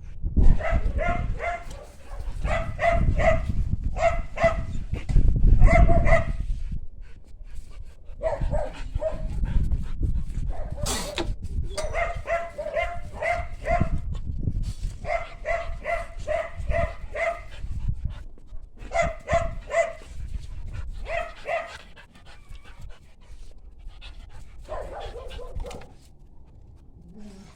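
Dog barking in rapid bouts of short, pitched barks, several a second, with pauses of a second or two between bouts.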